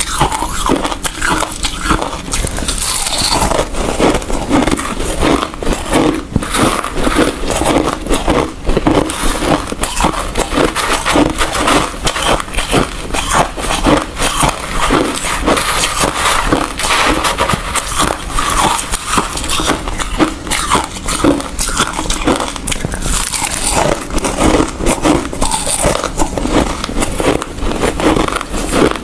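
A person chewing hard ice close to the microphone: dense, continuous crunching and cracking, many bites and crunches a second with no pause.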